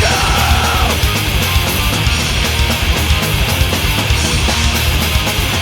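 Loud punk rock band playing with electric guitar, bass and drums in a stretch without vocals; a sung note trails off just under a second in.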